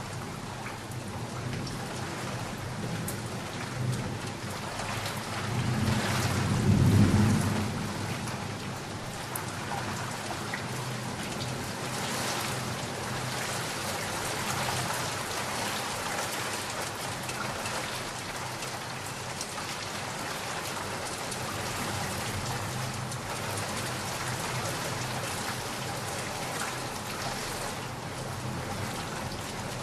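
Steady heavy rain, with a roll of thunder that builds and peaks about seven seconds in before fading back into the rain.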